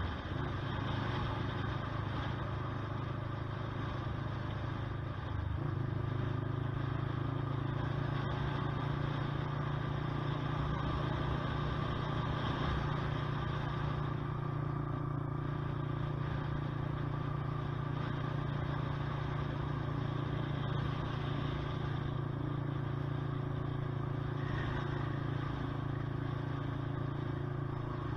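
Honda CBR125R's single-cylinder four-stroke engine running steadily while riding. Its note and level step up about five seconds in, then hold steady.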